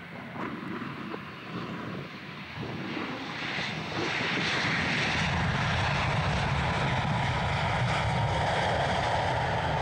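Air France Airbus A321 jet passing on approach, its engine noise growing louder over the first few seconds and then holding loud and steady, with a low rumble under a broad hiss.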